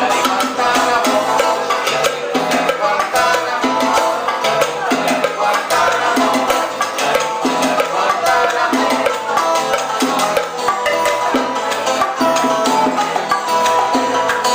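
Live Cuban salsa band playing, with busy percussion clicking out a steady rhythm over a moving bass line.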